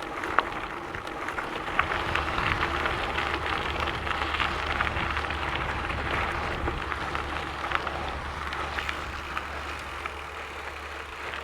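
Gravel bike tyres rolling over a gravel trail, a steady crunching hiss full of small clicks and pops from stones, with a steady low rumble underneath.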